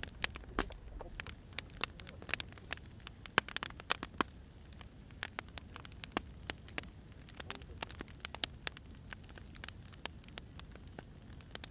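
Wood fire crackling: irregular sharp pops and snaps of burning firewood over a low, steady rumble of the flames.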